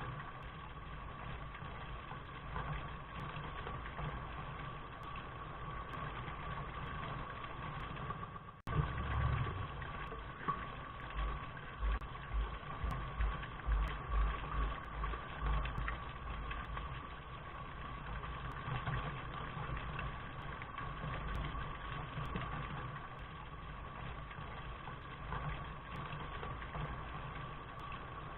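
Steady rain noise with a constant low rumble underneath. It cuts out for an instant about eight seconds in, then comes back with a few seconds of irregular low thuds.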